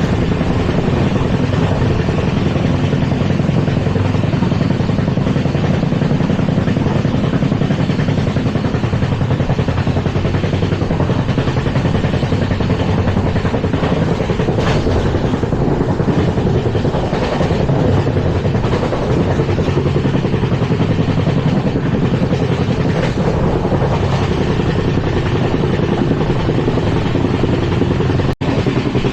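LHB passenger coach running at speed, heard from on board: a loud, steady rumble and clatter of wheels on rail. The sound cuts out for an instant near the end.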